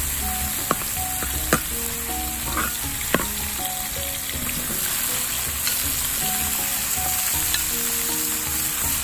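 Prawns and chilies sizzling steadily in hot oil in a black frying pan, with a metal spatula clacking sharply against the pan three times in the first few seconds as the food is stirred.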